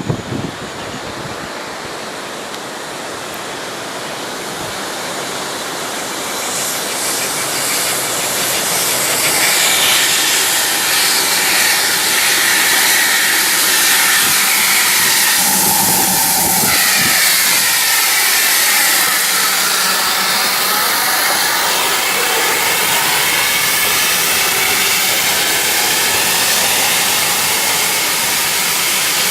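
Steam locomotive hissing loudly as it lets off steam. The hiss grows louder over the first ten seconds or so, then holds steady.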